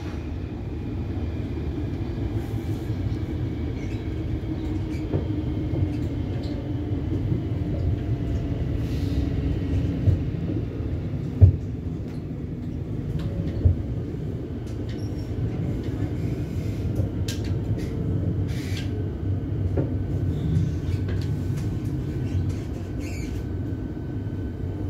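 Siemens Nexas electric train heard from inside the carriage while running along the track: a steady low rumble from the wheels and running gear, with three sharp knocks around the middle. A slowly falling tone sounds early on, and a thin steady high tone comes in over the last few seconds.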